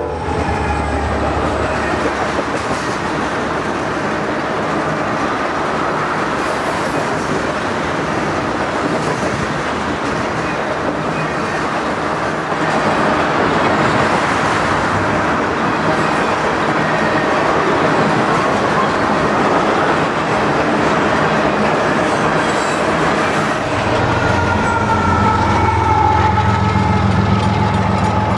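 Loaded ethanol tank cars of a freight train rolling past close by: a steady rumble of steel wheels on rail with clickety-clack over the rail joints. About 24 s in it changes to a low locomotive engine drone with two faint steady tones as a locomotive approaches.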